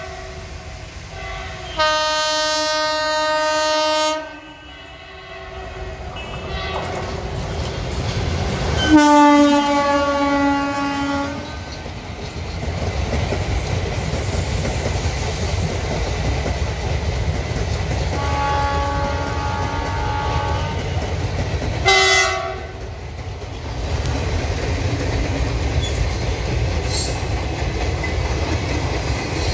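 Locomotive horn blasts over a passenger train passing close by. One long horn about two seconds in, another about nine seconds in whose pitch drops slightly at its start, a fainter one later and a short blast a few seconds after that. From about six seconds on the coaches pass with a steady rumble and the clickety-clack of wheels over rail joints.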